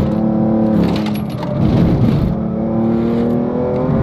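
BMW M3's engine heard from inside the cabin on track, its note climbing steadily in pitch through the second half as the car accelerates. A couple of short bursts of hiss come in the first two seconds.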